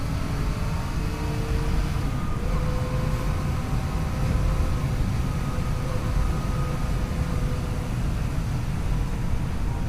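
Yamaha FJ-09 motorcycle's 847 cc inline three-cylinder engine running under way, with a heavy low rumble of wind and road noise. The engine note climbs slowly and dips once about two seconds in, like a gear change.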